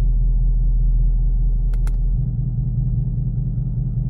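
Ford Mustang 5.0 V8 with its exhaust valves open, heard inside the closed cabin while cruising at about 70 km/h: a steady low drone. Two short clicks come just before two seconds in, and the drone changes a little after them.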